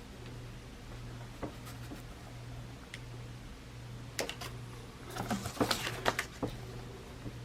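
Paper and craft tools being handled on a desk: a few scattered light clicks and taps, then a quick cluster of them a little past halfway, over a steady low hum.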